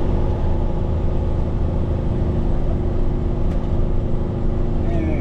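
Heavy rotator tow truck's diesel engine running steadily, with a deep hum and a constant pitch.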